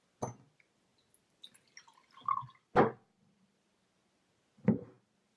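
A drink being poured from a bottle into a glass, with three sharp knocks, as of a bottle or glass set down on a table, the loudest about three seconds in.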